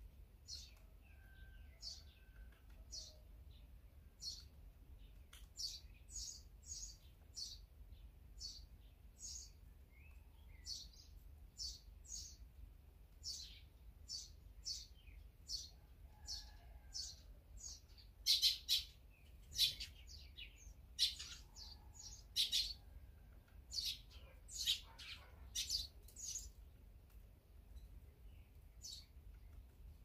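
Small songbirds chirping, a steady run of short, high chirps about once a second that comes faster and louder for several seconds past the middle.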